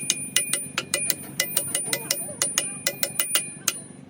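Rapid metal-on-metal tapping, about five strikes a second, each leaving a high ringing tone, over a steady low hum; the tapping stops near the end.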